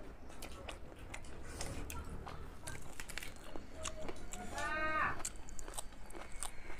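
Close-up mukbang eating sounds of chicken: chewing, wet lip smacks and crunchy bites in quick irregular clicks, with one short hummed voice sound about two-thirds of the way through.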